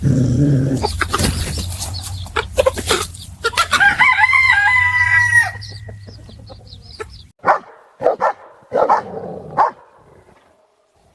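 Animal calls over scuffling and knocks. About a third of the way in comes one long pitched call that ends on a held note, and several short calls follow near the end.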